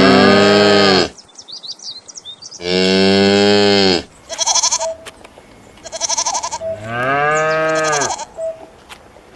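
Cows mooing: three long moos that fall in pitch at the end, with shorter calls in between.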